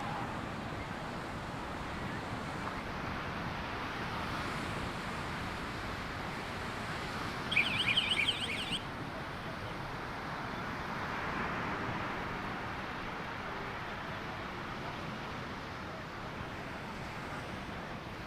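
Steady wash of ocean surf and wind. About halfway through, a loud, high, rapidly warbling chirp sounds for about a second.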